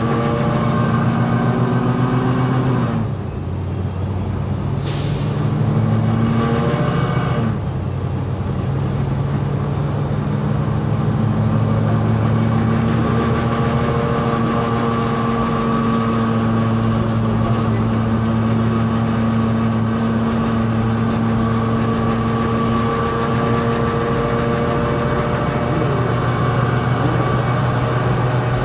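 Diesel engine of a New Flyer XD60 articulated bus running under way, heard on board. The engine note drops briefly about three seconds in and again near eight seconds in, with a short air hiss about five seconds in.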